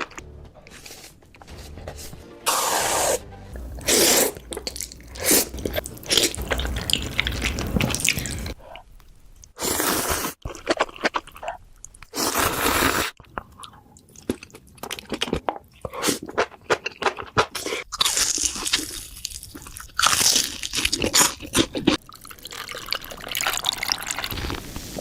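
Close-miked eating sounds: repeated crunchy bites and chewing of crisp, spicy food, in irregular clusters, with a few louder crunches standing out.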